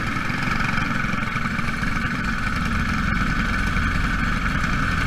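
Engines of Jr Lite race cars running during the feature race: a steady, high-pitched drone that does not rise or fall.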